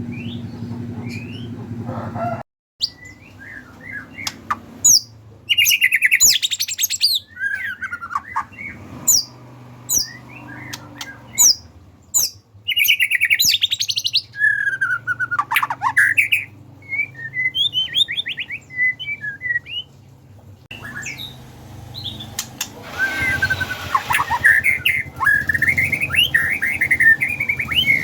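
White-rumped shama (murai batu) singing a loud, varied song: short phrases of whistles, rapid trills and sharp clicks, over a steady low hum. The sound drops out briefly about two and a half seconds in.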